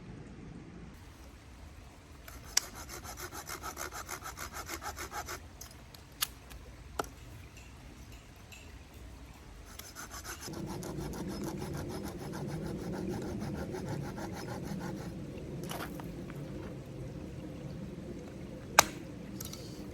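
Hand saw cutting through firewood in two bouts of quick back-and-forth strokes, with a few sharp knocks of wood in between; the loudest knock comes near the end.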